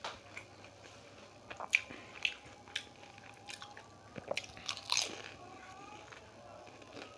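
Close-up biting and chewing of samosas, the fried pastry crust crunching in a string of sharp, uneven crackles, loudest about a third of the way in and again past the middle.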